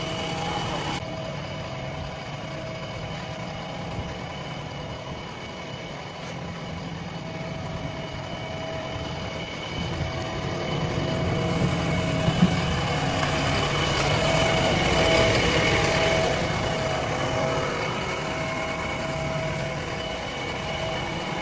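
Heavy machine's engine running steadily with a held whine, getting louder about halfway through and easing off again near the end.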